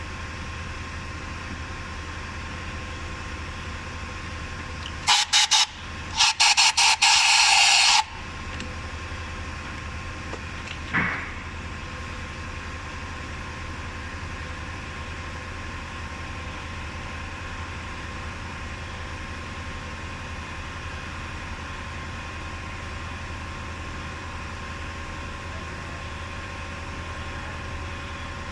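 Several short, loud hissing blasts about five seconds in, lasting about three seconds, over a steady low hum; a single brief knock follows a few seconds later.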